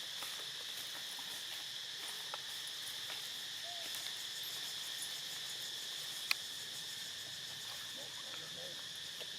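Steady high-pitched insect chorus that does not let up, with a few faint short calls and one sharp click about six seconds in.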